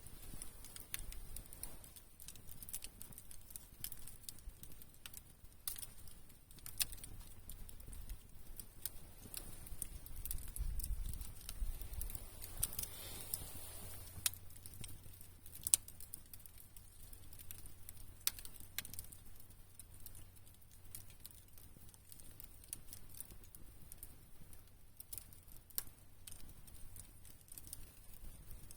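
Wood campfire crackling, with irregular snaps and pops and one louder pop about sixteen seconds in.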